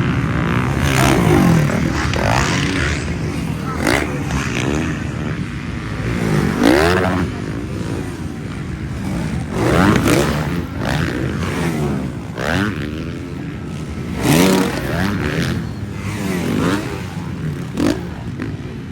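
Motocross bikes racing, their engines revving up and dropping back over and over as riders accelerate, shift and pass by.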